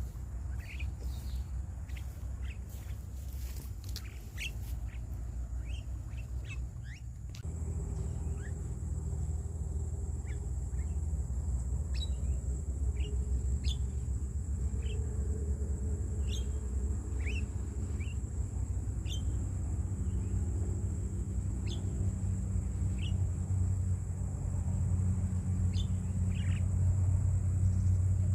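Wild birds giving short, sharp downward-sweeping chirps, one every second or so, over a steady low rumble and a thin high steady whine. The rumble gets louder about seven seconds in.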